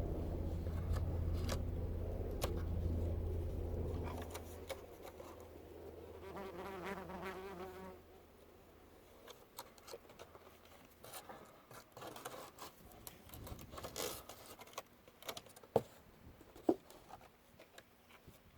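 Helicopter's low, steady drone fading away over the first several seconds. Then it is quiet, with scattered small clicks and rustles, two sharper ticks among them near the end.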